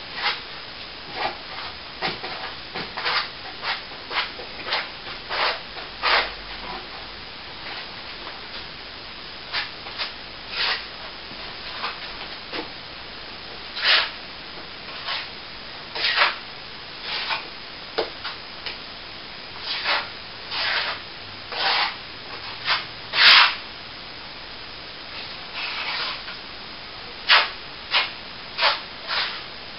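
Short rubbing strokes of a hand tool across a plaster wall, coming irregularly about once a second, with the loudest stroke about two-thirds of the way through.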